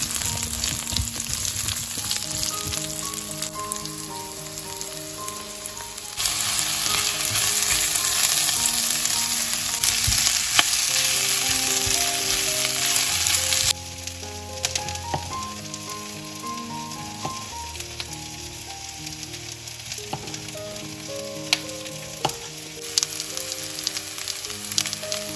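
Chopped vegetables sizzling as they fry in hot oil in a pan, louder for several seconds in the middle and then dropping back suddenly. A few sharp taps come near the end. Soft background music with a melody plays underneath.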